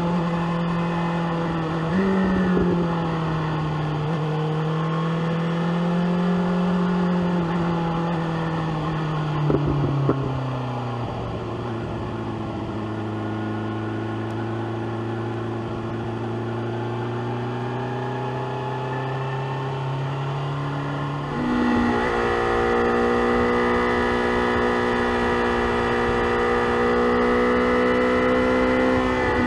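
BMW S1000R inline-four engine running under way on a ride, its pitch rising and falling with the throttle. About ten seconds in the note drops lower and quieter after two short sharp pops, then a little after twenty seconds it jumps up and gets louder as the throttle opens again.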